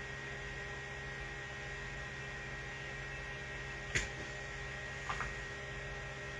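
Steady electrical mains hum, with one sharp click about four seconds in and a fainter double click about a second later.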